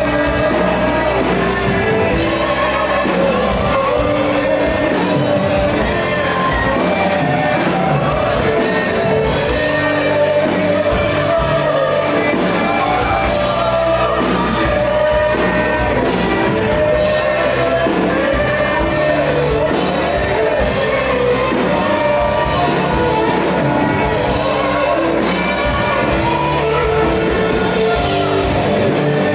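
Live worship band performing a rock-style song: voices singing over electric guitars, bass, keyboard and drums, heard in a large hall.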